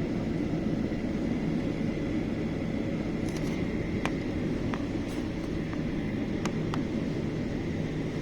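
Aircraft engine noise heard from inside the aircraft: a steady hum with a constant low tone and a thin high whine, with a few short sharp ticks scattered through the middle.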